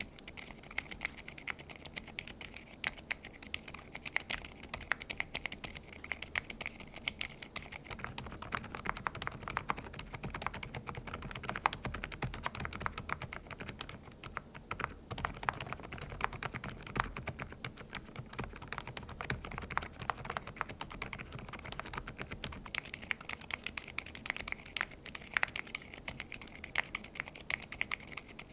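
Continuous typing on a mechanical keyboard with Osume Little Ghost silent linear switches: a dense, uneven stream of keystrokes.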